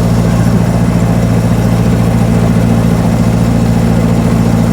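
1924 Austin Seven's small four-cylinder side-valve engine running steadily under load as the car pulls up a gradient at low speed, heard from inside the car.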